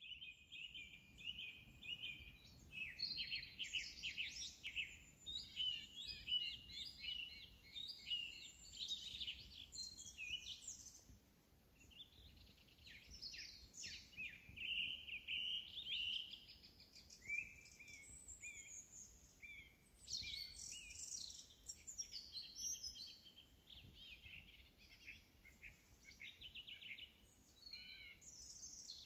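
Several songbirds singing at once, a dense overlapping chorus of high chirps, whistles and fast trills, over a faint low background noise.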